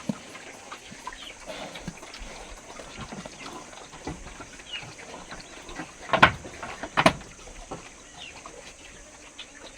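Farm animals calling: scattered small chirps throughout, with two loud, short cries about six and seven seconds in.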